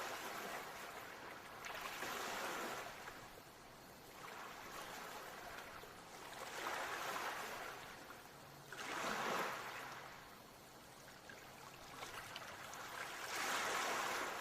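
Ocean waves breaking and washing up the shore, the surf swelling and falling back four times.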